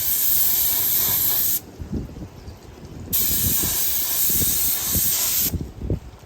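A loud hissing blast, like a jet of pressurised air or spray, that cuts off about a second and a half in and starts again for a second long blast near the middle, with light knocking and clatter underneath.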